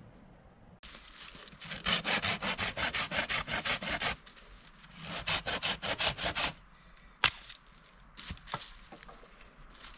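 Hand saw cutting through wood in two runs of quick back-and-forth strokes, followed by a single sharp crack and a few light knocks.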